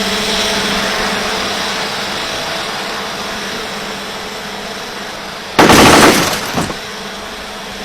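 Quadcopter drone's rotors humming steadily, then about five and a half seconds in a single sudden, very loud blast lasting about a second as the drone's self-destruct payload explodes.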